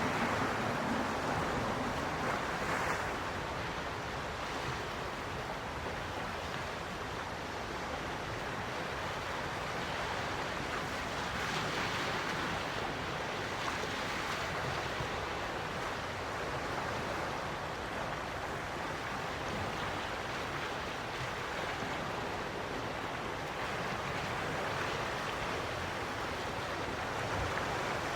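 Gentle sea waves washing onto the shore, a steady wash of surf that swells and eases softly every few seconds.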